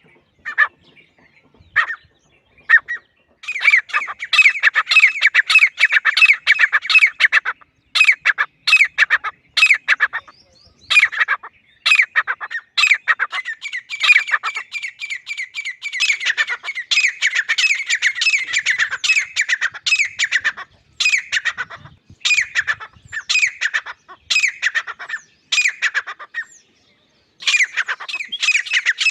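Grey francolin calling loudly: a few separate harsh notes at first, then long runs of rapid, repeated squawking notes with short breaks between bouts.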